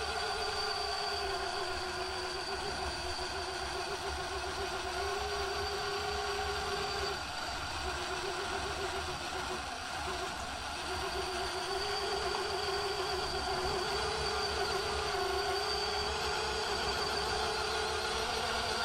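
RC rock crawler's motor and gearing whining steadily under load as it climbs a steep incline, the pitch wavering with the throttle and dipping briefly twice partway through.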